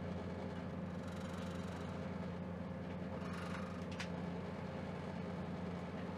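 Steady rumble of a moving train heard from inside the carriage, with a low hum and a brief tick about four seconds in.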